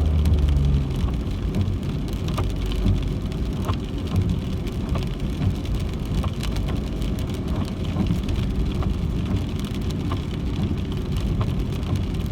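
A car driving in the rain, heard from inside the cabin: steady low road and engine rumble, with scattered light ticks of raindrops hitting the car.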